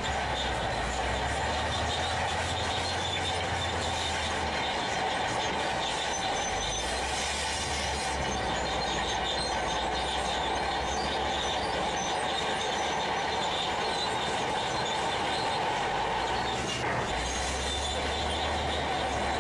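Heavy diesel machinery running steadily, with a continuous high whine over a low rumble that swells and fades several times.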